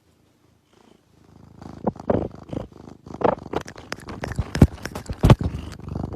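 A domestic cat purring close to the microphone, starting about a second and a half in. There are a couple of sharper thumps near the end.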